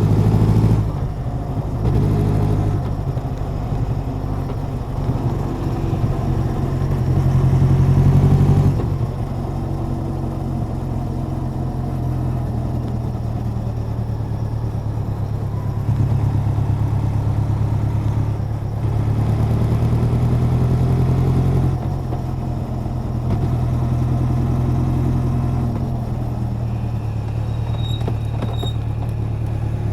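Honda CB1100's air-cooled inline-four engine and exhaust running under way, the engine note swelling and easing with the throttle. It builds to a peak and drops off sharply about nine seconds in, then rises and falls again later.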